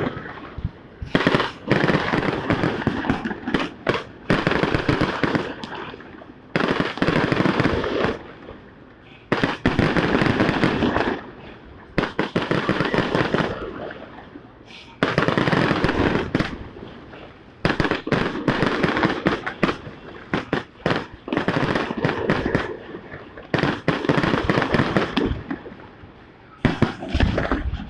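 Fireworks going off in rapid crackling bursts, each a second or two of dense popping, one after another with short pauses between.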